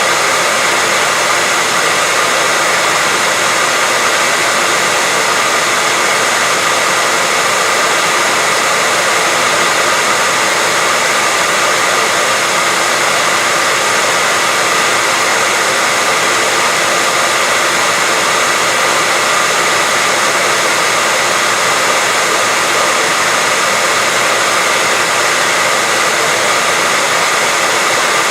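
Continuous white noise: a loud, even hiss that never changes, with faint steady tones running through it.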